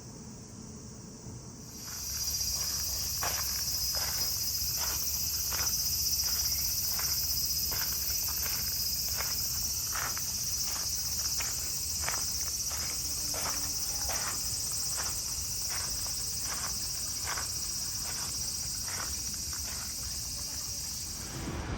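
A steady, high-pitched chorus of cicadas that sets in sharply about two seconds in, with footsteps about twice a second under it.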